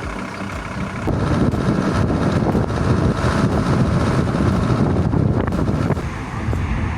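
Volkswagen T4 minibus running, heard from inside. About a second in, a louder rumble of engine and road noise comes in as it drives off, with wind buffeting the microphone.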